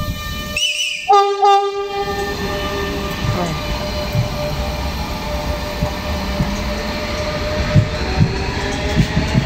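Renfe Rodalies class 447 electric multiple unit giving two short horn blasts about a second in, then running past with a steady electric whine over wheel rumble and occasional clacks of wheels over rail joints.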